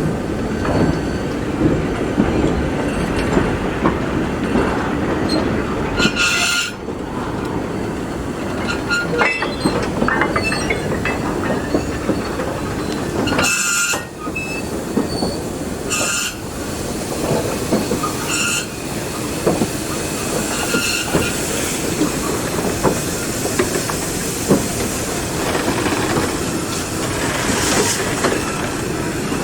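A train running on a heritage railway line: steady rumble of coach wheels on the rails, with several short, high squeals from the wheels about a quarter and about half to two-thirds of the way through.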